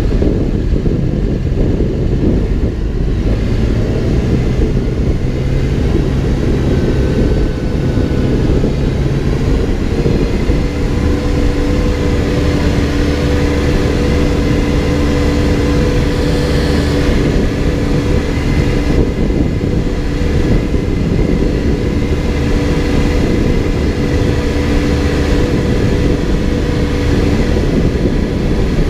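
Backhoe's diesel engine running steadily while working. About ten seconds in, the low hum gives way to a higher, steadier drone that continues to the end.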